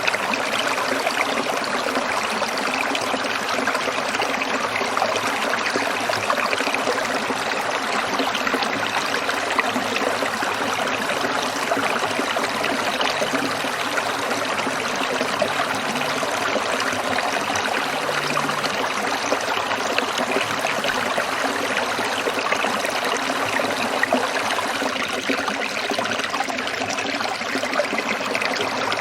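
Small stream trickling and burbling over stones, a steady unbroken flow of water.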